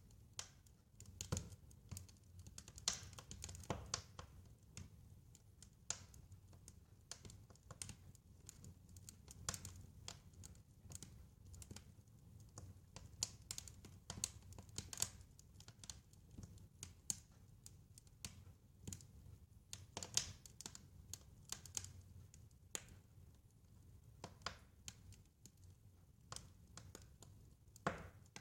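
Wood fire crackling in a fireplace: irregular sharp pops and snaps, some louder than others, over a soft low rumble of the burning.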